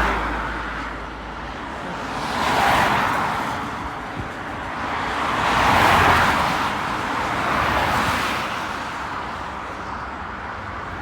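Road traffic: three vehicles pass one after another, each a swell of tyre and engine noise that rises and fades over a couple of seconds.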